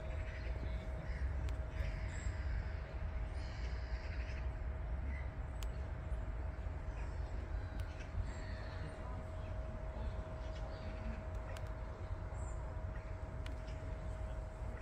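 Birds calling now and then, cawing calls, over a steady low rumble and a faint steady whine.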